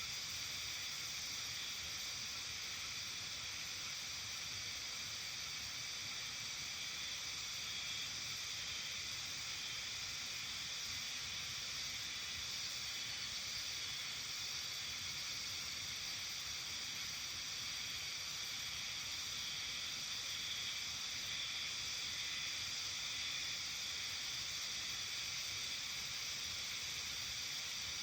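Steady, dense high-pitched chorus of calling insects, their overlapping trills running without a break.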